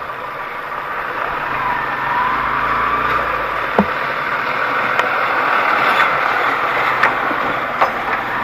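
An off-road vehicle's engine running steadily, with a few sharp knocks spread through the second half.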